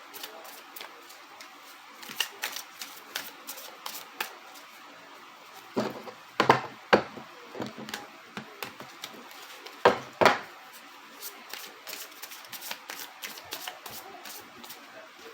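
Tarot cards being shuffled and handled: a run of light, quick card clicks, with a few louder slaps about six and ten seconds in.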